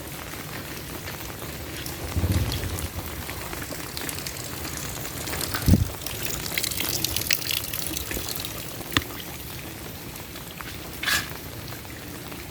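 Heavy rain falling, with water trickling and pouring. A few dull thumps come about two and six seconds in.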